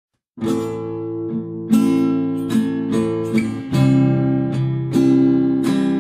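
Acoustic guitar strumming the chords of an intro, starting about half a second in, with separate strummed chords whose attacks ring out.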